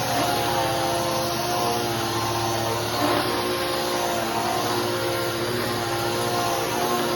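Bissell Powerforce Helix upright vacuum cleaner running steadily, its motor giving an even whine.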